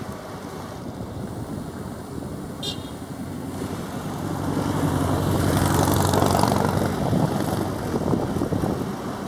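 Turboprop aircraft with a Pratt & Whitney PT6A engine passing close by. Its propeller hum swells to its loudest about six seconds in and then eases off.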